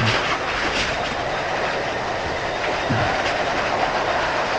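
Steady rush of running water while a washed car air filter is rinsed, with a couple of faint low knocks.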